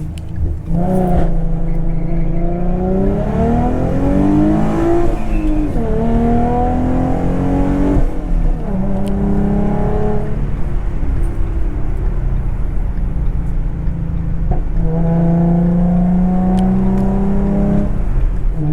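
2011 Ford Mustang's 3.7-litre V6 engine under acceleration, heard from inside the cabin: its note climbs in pitch as the car pulls, drops back at upshifts about five and eight seconds in, then settles to a steadier cruise near the end.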